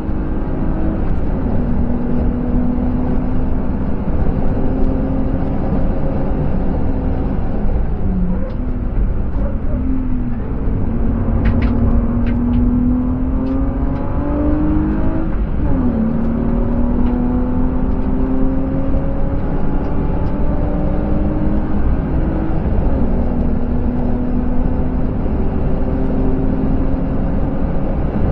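BMW E36 320i's 2.5-litre M50 straight-six heard from inside the cabin under hard track driving: it upshifts just after the start, comes off the throttle and blips down through the gears about a third of the way in as the car brakes for a slow corner, then pulls hard again with its pitch climbing through two more upshifts. Steady tyre and wind noise runs under the engine.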